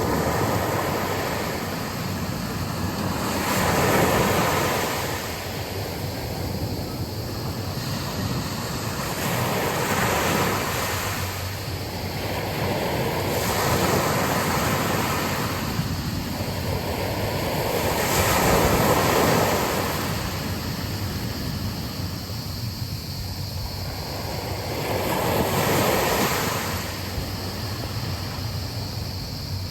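Sea waves breaking and washing onto a beach, with five swells that rise and fall over a few seconds each. Wind rushes over the microphone underneath.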